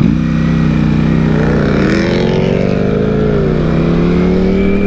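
V4 sport bike engine running under load, its pitch dipping about two seconds in and then climbing slowly.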